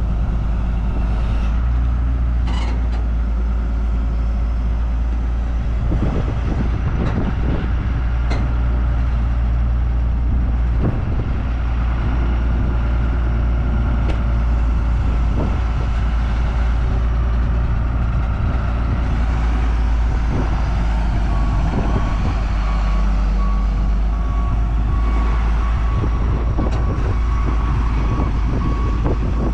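A vehicle engine runs steadily at close range, with scattered knocks and clanks. About two-thirds of the way through, a backup alarm starts beeping rapidly.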